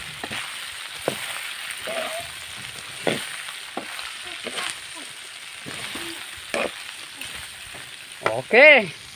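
Frog adobo sizzling in a frying pan as a spatula stirs and turns it. A steady frying hiss runs under scattered scrapes and taps of the spatula against the pan.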